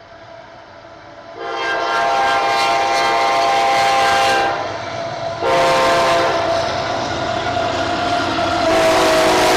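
Locomotive air horn sounding its chord in two long blasts, with a third blast beginning near the end: the grade-crossing warning of an approaching train. The train's rumble grows underneath.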